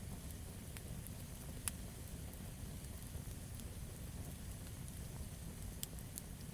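Campfire of burning wood crackling: scattered sharp pops and snaps, a few seconds apart, the sharpest about two seconds in and two close together near the end, over a steady low rumble of the flames.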